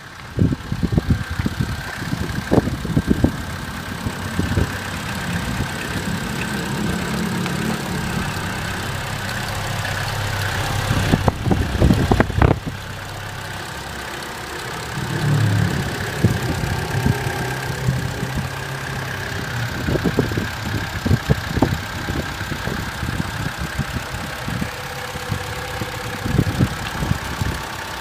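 Tigra's Z14XEP 1.4-litre four-cylinder petrol engine starting up, then idling, with several brief revs, the longest of them about halfway through.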